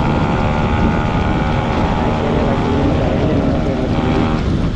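Yamaha RX two-stroke single-cylinder motorcycle running under way, a steady exhaust note with heavy wind rush on the microphone. The engine note eases off near the end.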